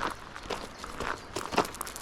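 Footsteps of a person walking outdoors at a steady pace of about two steps a second.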